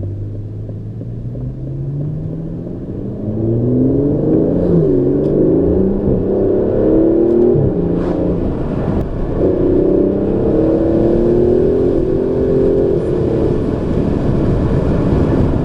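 Aston Martin DB11's twin-turbo 5.2-litre V12 under hard acceleration, the engine note climbing steeply and dropping back at each quick upshift several times as it pulls through the gears.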